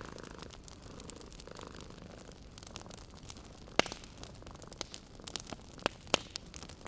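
Wood fire in a fireplace crackling: a low hiss with irregular sharp pops. One pop is louder than the rest about four seconds in, and several more come in quick succession near the end.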